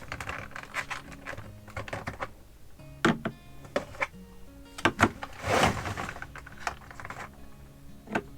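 Irregular light clicks and knocks of eggs and plastic egg-holder trays being handled, with a short scrape a little past halfway, over soft background music.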